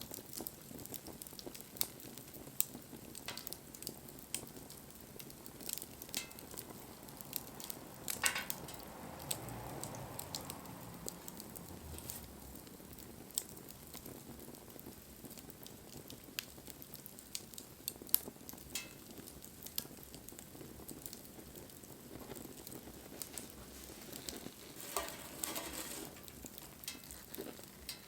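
Wood fire crackling, with sharp pops and snaps scattered over a steady sizzling hiss.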